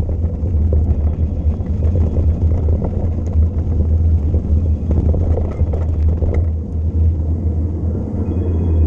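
Wind buffeting the microphone of a camera on a descending mountain bike: a loud, steady low rumble, with faint clicks and rattles through it.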